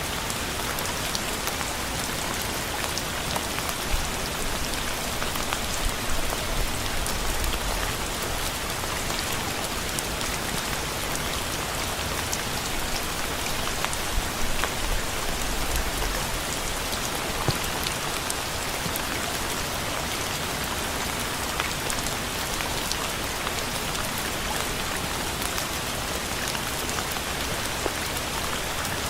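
Steady rain falling on a surface, a dense even hiss with scattered drop clicks and a few faint low rumbles.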